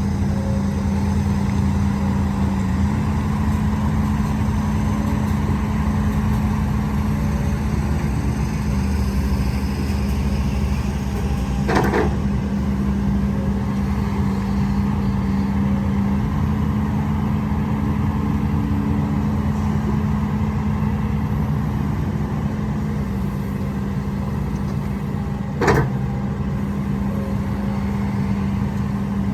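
Heavy diesel engine of a hydraulic excavator running steadily at working speed, its pitch stepping slightly up and down a few times. Two sharp knocks ring out, one about midway and one near the end.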